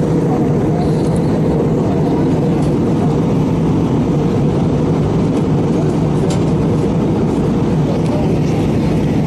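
Steady rumble of a jet airliner's cabin in flight: engine and airflow noise heard from a passenger seat.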